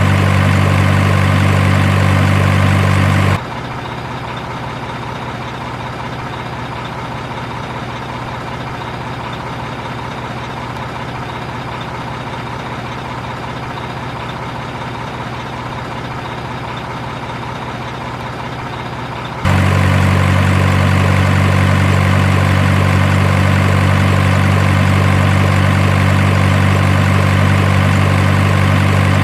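Truck engine idling sound, steady and even with a strong deep hum. About three seconds in it cuts abruptly to a quieter, thinner engine sound, and about nineteen seconds in it cuts back just as suddenly to the full, deep idle.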